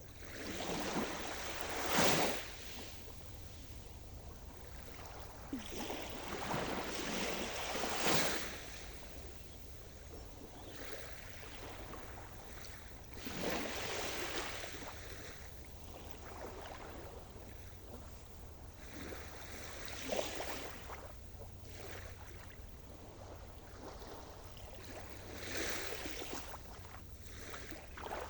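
Sea surf: waves breaking and washing up the shore, each surge swelling and fading, about five in a row roughly six seconds apart.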